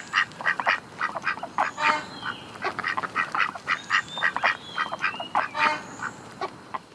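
Ducks quacking in rapid short calls, several a second.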